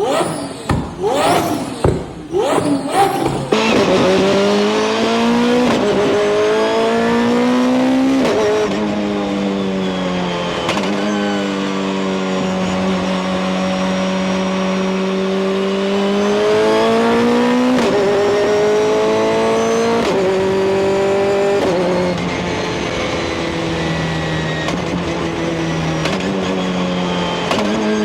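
High-performance car engine blipping the throttle in quick revs, then accelerating hard, its pitch climbing and dropping back at each of several gear changes.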